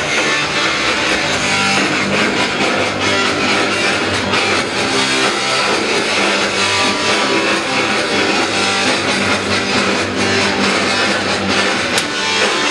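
Punk rock band playing live, with loud electric guitar to the fore and no singing.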